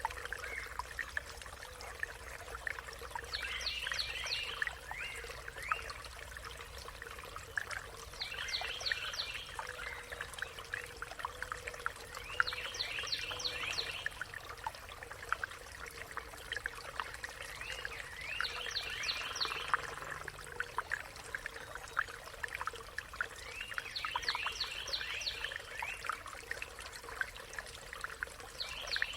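Birdsong: a bird repeats a short phrase of rapid notes about every four to five seconds, with other faint chirps, over water trickling steadily.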